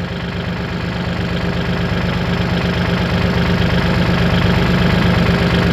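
An engine running steadily at a low, even speed, slowly growing louder.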